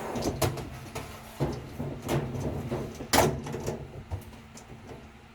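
Irregular knocks, scrapes and clatter from handling a washing machine's water-supply hose and its threaded fitting as it is reconnected to the inlet valve, over a faint steady hum. The handling thins out after about four seconds.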